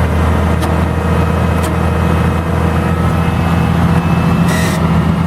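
Case 5130 tractor's diesel engine idling steadily at an even speed. A brief hiss comes in about four and a half seconds in.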